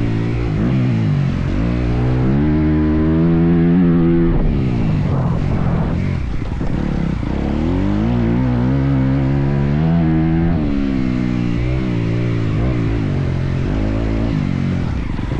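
Motocross dirt bike engine revving hard and backing off in turn, its pitch climbing and then dropping sharply twice, about four seconds in and again about ten seconds in.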